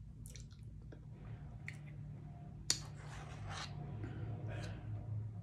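Soft eating sounds, a person chewing food with small mouth noises, and one sharp click about two and a half seconds in, over a low steady hum.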